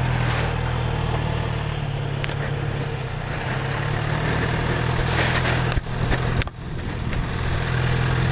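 Motorcycle engine idling steadily close by, with two brief dips a little after five and six seconds in.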